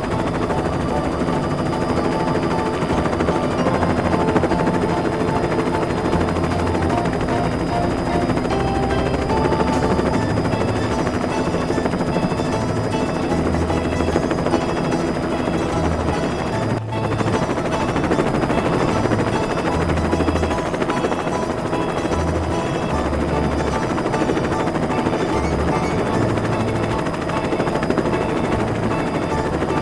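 Helicopter rotor sound, continuous, over background music with a changing bass line; both dip for an instant about 17 seconds in.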